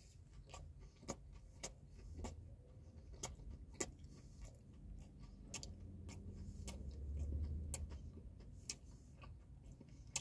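Quiet chewing of a boneless chicken wing, with small sharp clicks every half second or so, and a low faint hum that swells and fades around the middle.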